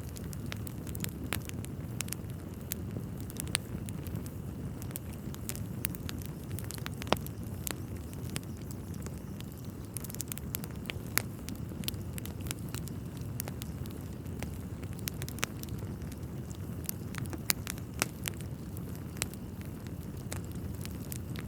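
Wood fire burning in a fireplace: logs crackling with frequent sharp pops over a steady low rumble. A few pops stand out louder than the rest.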